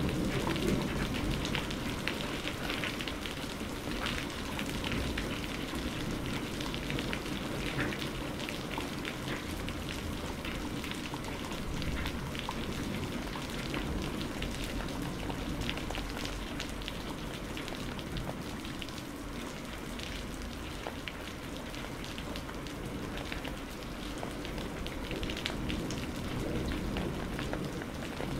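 Steady rain falling on a surface, with many individual drops heard as small ticks over a continuous hiss and a steady low undertone.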